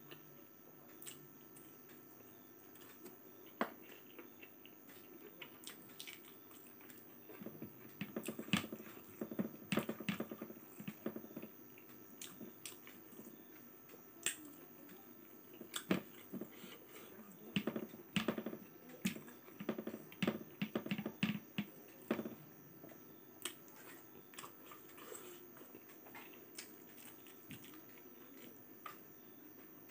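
A person chewing food with the mouth open: wet smacks and clicks that come thick and fast through the middle stretch and sparser before and after.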